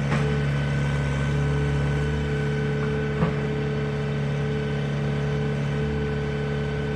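Excavator's diesel engine running steadily, with one light knock about three seconds in.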